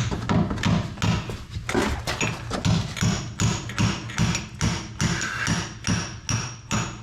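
Repeated hammer blows, about two a second and evenly paced, with a short metallic ring on each strike: a hammer driving a stuck, poorly greased pivot pin out of a wheel loader's hydraulic steering cylinder mount.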